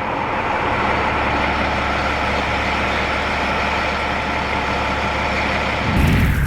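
Fire truck engine running steadily. Guitar music cuts in near the end.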